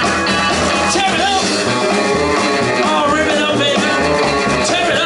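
Live rockabilly band playing an instrumental break: an electric guitar lead with bent notes over a driving bass line and drums.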